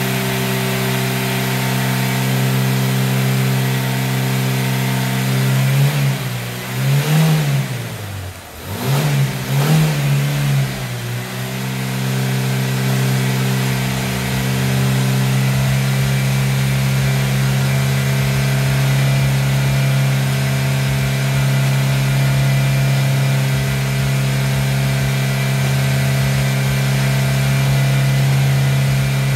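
Freshly rebuilt BMW 1 Series engine running steadily during its initial break-in run. Its revs rise and fall twice a few seconds in, then settle back to an even speed.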